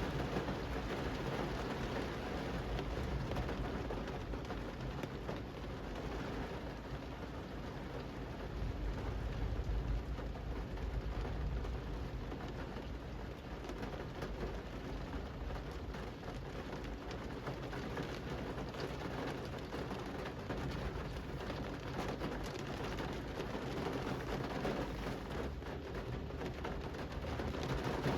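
Steady rain falling on a city street, an even hiss of drops on pavement. A low rumble swells briefly about ten seconds in.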